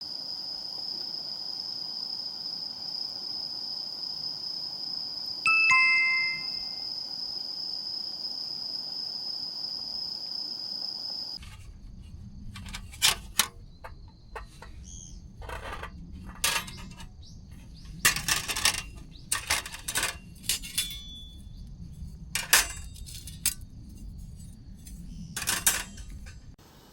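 A steady high tone with a short two-note descending chime about five seconds in. From about eleven seconds the tone stops and irregular sharp cracks and pops sound over a low rumble.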